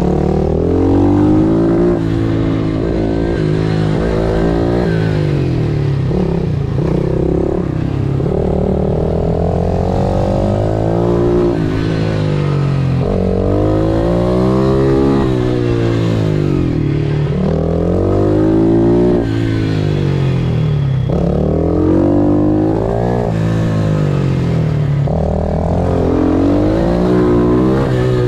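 Pit bike's single-cylinder engine revving up hard and dropping off again and again as it accelerates out of and slows into corners, its pitch sweeping up and falling back every few seconds.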